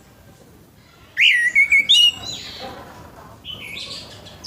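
Orange-headed thrush singing: a loud, quick warbling phrase about a second in, then a softer phrase near the end.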